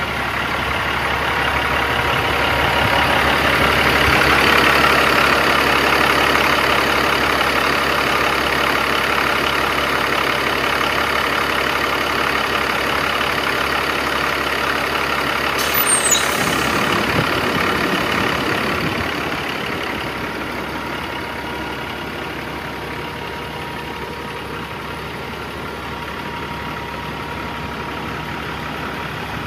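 2007 Peterbilt 357 truck's 15-litre six-cylinder diesel engine running steadily at idle. There is a short click about halfway through, and after it the engine sound eases off and runs quieter.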